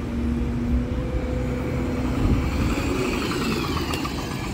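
A large road vehicle arriving: a steady engine hum, then a high whine that falls in pitch over the last second or so.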